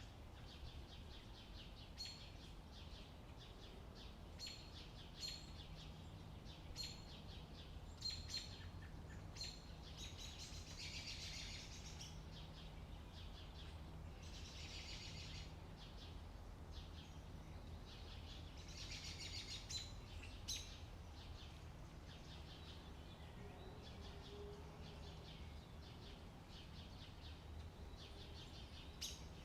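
Birds chirping in short, high calls repeated every second or two, with a few longer buzzy trills, over a faint steady low rumble.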